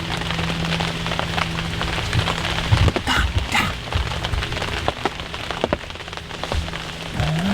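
Steady crackling patter like rain falling on a surface, with a steady low hum for the first few seconds and a couple of sharper rustles about three seconds in.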